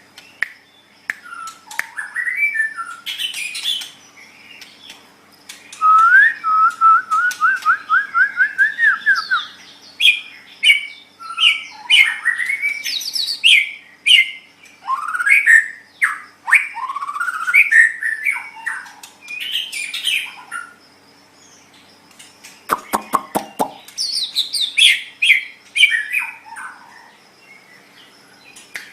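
White-rumped shama (murai batu) singing a long, varied run of clear whistled phrases and trills, including a quick series of about ten rising notes, with a short burst of rapid clicks about two-thirds of the way through.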